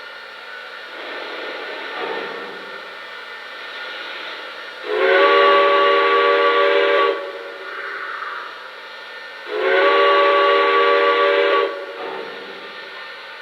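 Lionel Legacy Erie 4-6-0 model steam locomotive's onboard sound system blowing two long steam whistle blasts, each about two seconds, over a quieter steam hiss. Two long blasts is the railroad signal to release brakes and proceed.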